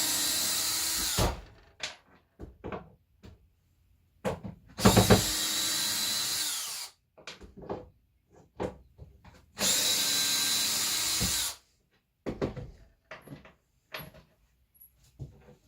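Power drill backing screws out of wood boards, run three times for about two seconds each: at the start, about five seconds in and about ten seconds in. Each run is a steady motor whine that winds down, with clicks and knocks of handling between the runs.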